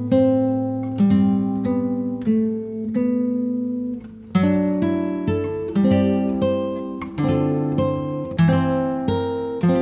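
Background music: acoustic guitar playing plucked and strummed notes, with a brief pause about four seconds in.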